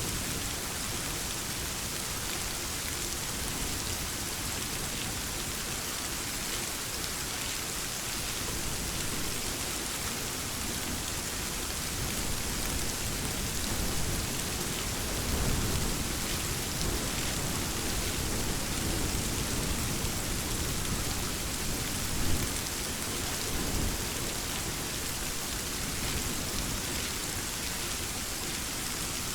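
Steady rain falling, with a low rumble of thunder that swells in the middle and then fades.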